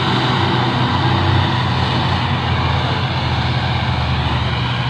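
Belarus tractor diesel engine running loudly and steadily.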